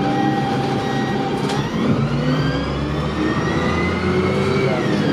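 Dennis Dart bus engine and drivetrain pulling away, with a whine that climbs in pitch for about three seconds and then drops near the end as it eases off.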